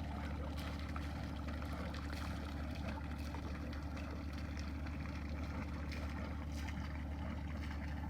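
A boat's engine running with a steady, even low hum.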